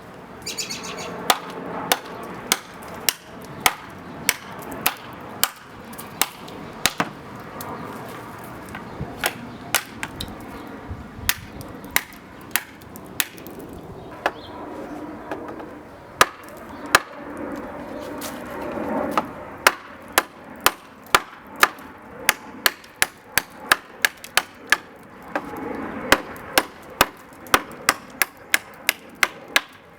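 A hand-forged railroad-spike knife chopping into wood, with sharp strikes that come irregularly at first and then settle into a steady run of about two a second.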